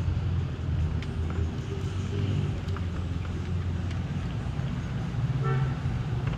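Vehicle engine running steadily with a low hum, and a short higher-pitched sound about five and a half seconds in.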